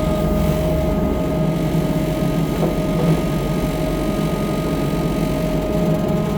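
Chainsaw running steadily while cutting into a fallen bur oak trunk, its bar starting to pinch in the cut.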